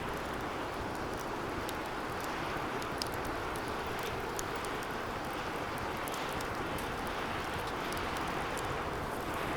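Wood fire burning in a metal fire pit: a steady rushing noise with many small crackles and pops scattered throughout.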